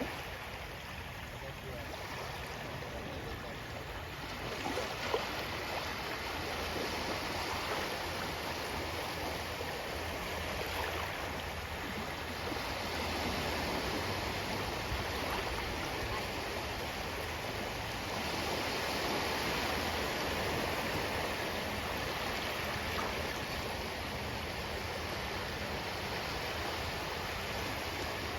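Ocean waves washing onto the shore: a steady rush of surf that swells and ebbs gently every several seconds. One short sharp tick about five seconds in.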